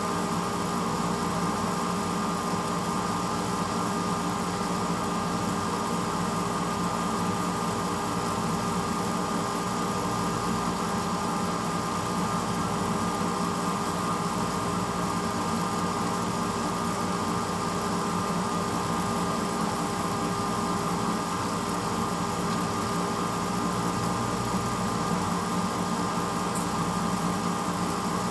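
1986 Hotpoint Potwasher dishwasher running early in its cycle: a steady motor hum with a constant rushing noise, unchanging throughout.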